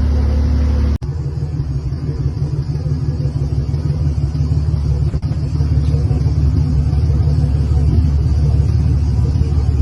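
Boat engines running with a steady low drone. About a second in the sound breaks off sharply, then goes on as a rougher rumble that grows slightly louder.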